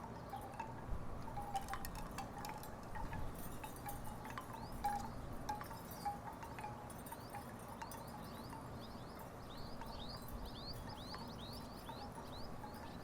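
Wooden tiki wind chimes knocking in the breeze, giving irregular short, hollow wooden notes.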